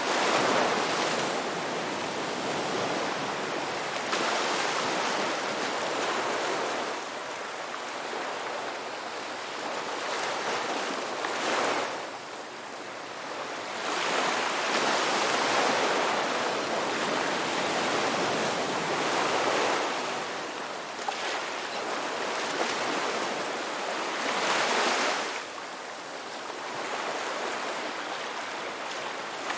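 Ocean waves breaking and washing on a shore, in repeated surges that swell and fall back every several seconds, loudest about a second in, around 12 s, through the middle and near 25 s.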